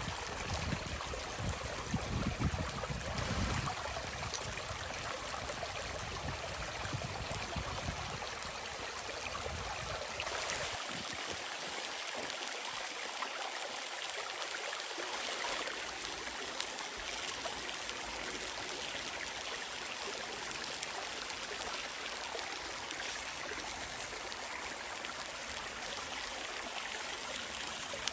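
Steady rushing sound like running water, a stream or trickle. Low wind buffeting is heard over it in the first few seconds and dies away.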